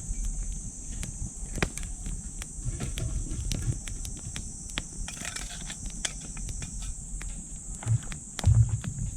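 Wood fire crackling in a small titanium wood stove, with irregular sharp snaps and pops, over a steady high-pitched insect chorus. A couple of dull thumps come near the end.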